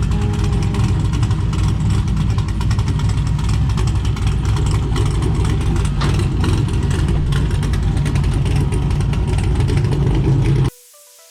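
A vehicle engine running steadily with a strong low rumble. It cuts off suddenly near the end, leaving faint electronic music.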